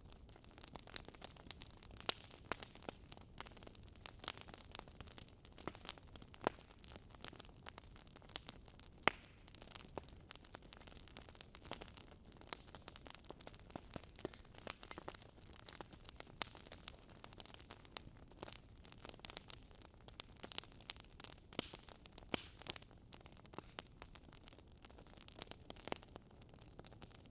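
Wood fire crackling in a fireplace: irregular pops and snaps over a soft hiss, one louder pop about nine seconds in.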